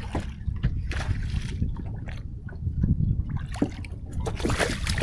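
Water splashing as a hooked fish thrashes at the surface while it is reeled toward a kayak, with a few clicks, in splashes about a second in and again near the end. Wind rumbles steadily on the microphone.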